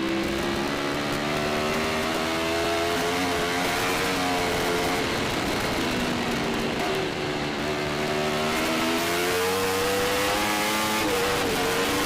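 Racing superbike engine heard onboard, pulling hard and climbing in pitch, then dropping at each upshift, a few times over.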